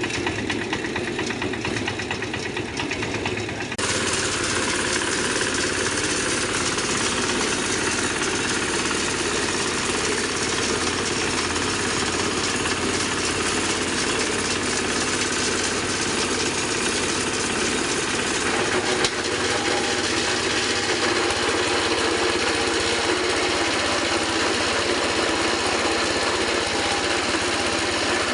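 Feather meal grinding machine running steadily. About four seconds in its sound grows fuller and brighter, then holds at that level.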